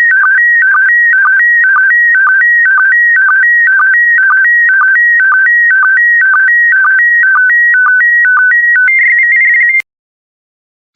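Slow-scan TV (SSTV) signal in PD120 mode: high warbling tones jumping between pitches in a pattern that repeats about twice a second as each pair of image lines is sent. Near the end the pattern changes and a brief steady high tone plays, then the signal cuts off suddenly as the image transmission finishes.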